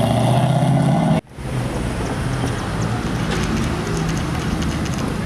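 A car's engine and exhaust running loud with a steady low note, cut off abruptly about a second in, followed by quieter car engine and traffic sound.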